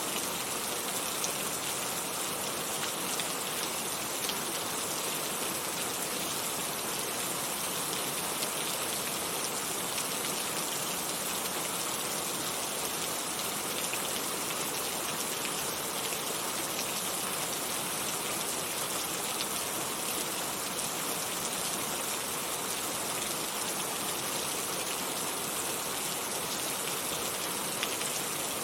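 Heavy rain falling steadily, a dense even hiss of drops with scattered individual drop ticks.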